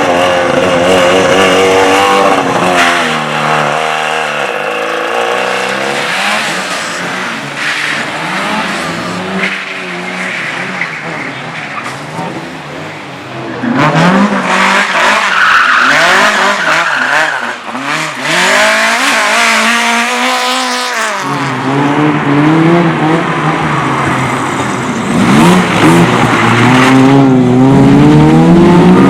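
Race cars on a slalom course, engines revving hard with pitch rising and falling through acceleration and gear changes, and tyres squealing and skidding in the turns. The sound swells as cars come close, with a fresh car's engine building up strongly in the last third.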